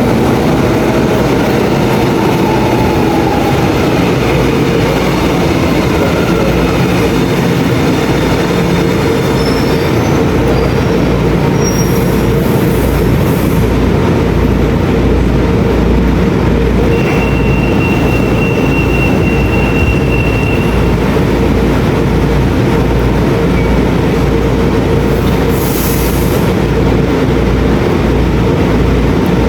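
São Paulo Metro train running on its rails: a loud, steady rumble of wheels with the whine of its electric traction motors changing pitch in the first part. A thin, high wheel squeal is held for a few seconds in the middle.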